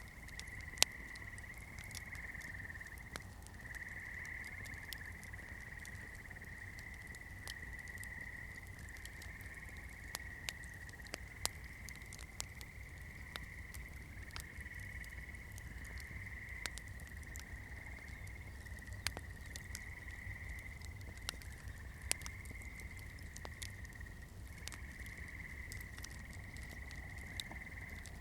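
Wood campfire crackling: irregular sharp pops and snaps, one louder pop about a second in, over a steady high-pitched drone that breaks off briefly now and then.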